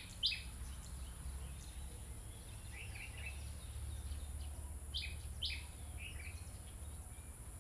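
Scattered short bird chirps, a few about three seconds in and a cluster around five to six seconds, over a steady low rumble.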